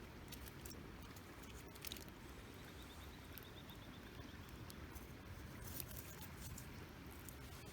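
Small wood campfire crackling quietly: scattered sharp pops and ticks over a low, steady rustle of burning.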